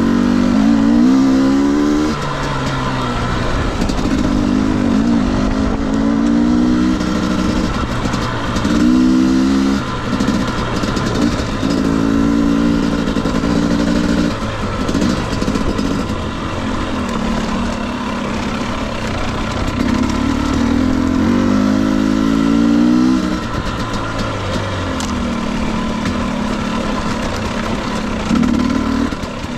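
Husqvarna TE250i 250 cc two-stroke single-cylinder dirt bike engine revving in repeated throttle bursts, its pitch climbing with each burst and falling away as the throttle is rolled off between them.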